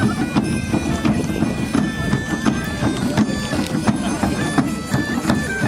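Bagpipes playing a tune over their steady drone, with a regular beat of sharp percussive knocks and a crowd murmuring underneath.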